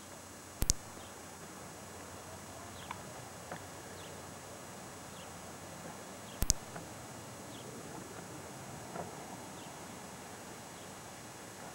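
Quiet outdoor ambience with faint, short bird chirps scattered through, over a steady hiss. Two sharp double clicks, about half a second in and about six and a half seconds in, are the loudest sounds.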